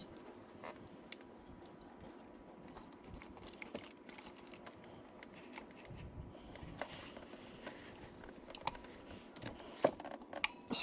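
Scattered light clicks and taps from small parts and hand tools being handled, with a sharper knock near the end, over a faint steady hum.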